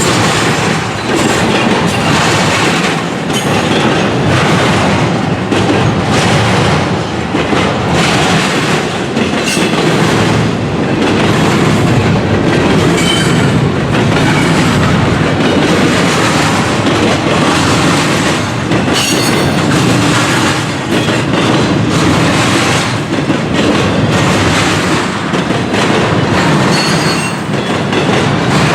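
Long intermodal freight train rolling past close by: steady rumble of wheels on rail with continual clickety-clack over the joints, and a few short, faint high wheel squeals.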